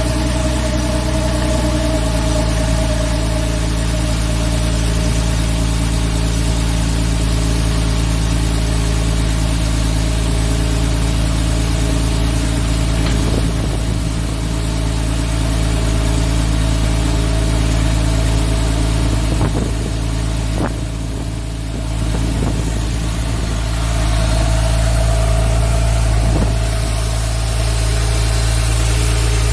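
2011 Porsche 911 Carrera S's 3.8-litre flat-six idling steadily just after a cold start, its revs dropping from the start-up flare in the first couple of seconds and then holding at a fast cold idle.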